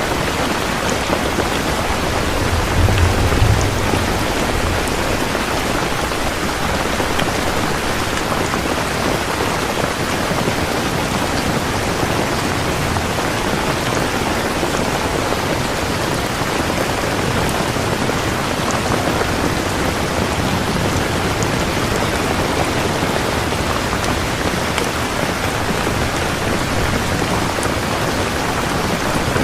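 Steady, heavy rain falling on a surface, an even dense hiss. A short low rumble rises briefly about three seconds in.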